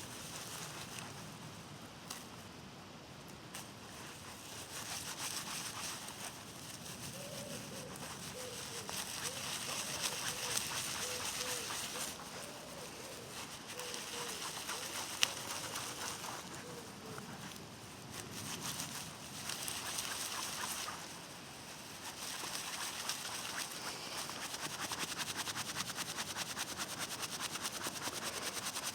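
Dry bark fibres being rubbed, pulled apart and fluffed by hand into a fine tinder bundle, a dry rustling and scratching that swells and fades in long strokes. A faint run of short chirps sits behind it through the middle.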